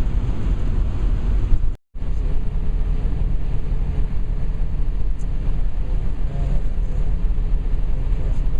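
Steady low rumble of a road vehicle on the move, with road and wind noise, broken by a brief dropout to silence about two seconds in.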